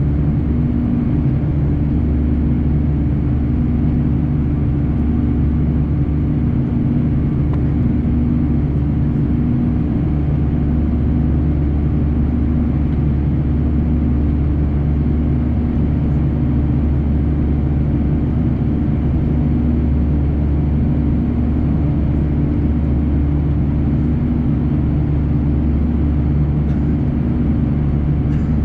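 Cabin sound of an Airbus A340-300 under takeoff thrust: its four CFM56 engines give a steady drone with a low rumble and a few level tones. The sound is way less loud than expected.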